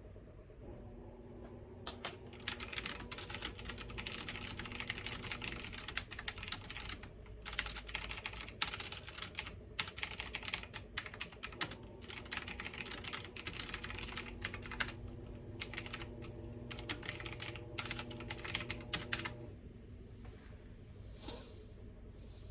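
Fast typing on a computer keyboard, a dense run of key clicks that starts a couple of seconds in and stops near the end, over the steady low hum of a washing machine running.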